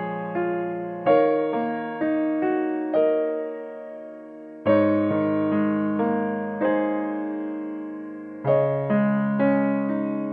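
Slow, gentle solo piano music: chords and single notes struck every second or so, each ringing and fading away, with fresh chords about one, five and eight and a half seconds in.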